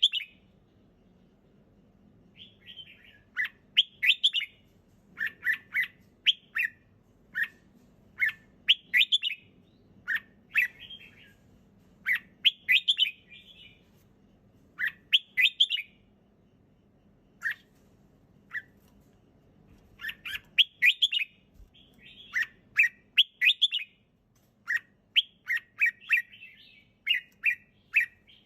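Red-whiskered bulbul singing: short, bright, chirpy phrases repeated every second or two, with a couple of longer pauses. A faint steady low hum lies underneath.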